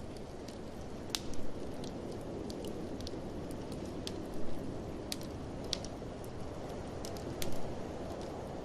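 Wood fire crackling in a fireplace, with irregular sharp pops and snaps, several in quick clusters, over a steady rushing of blizzard wind.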